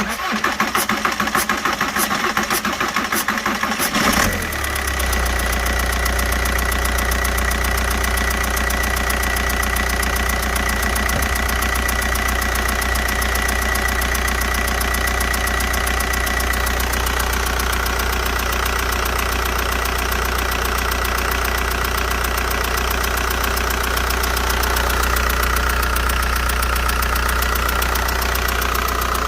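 VW 1.9 TDI ALH four-cylinder diesel idling with its steady diesel clatter, and a steady high whistle over it. The whistle is the odd vacuum noise from the top of the engine bay that the owner is chasing. About four seconds in, a deep low rumble comes in and stays.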